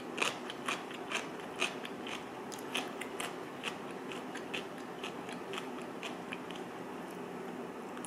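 Close-up crunching of crisp cucumber kimchi being chewed: short, irregular crunches about two or three a second, more of them in the first half.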